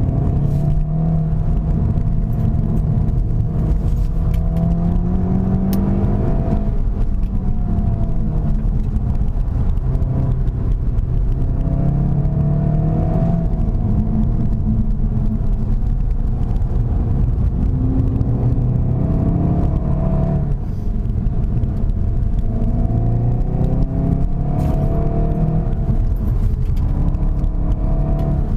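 SEAT Leon Cupra 300's 2.0-litre turbocharged four-cylinder engine under hard driving, its pitch climbing and then falling again several times as the car accelerates and brakes through a series of corners, with steady road and tyre noise underneath.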